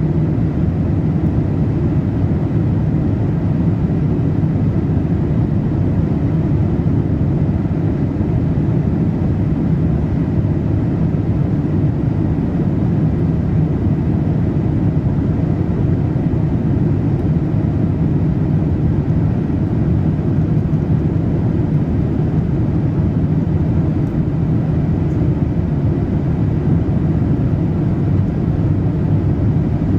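Steady low cabin rumble of a Boeing 787-8 in flight: engine and airflow noise heard from inside the passenger cabin, even throughout with no changes.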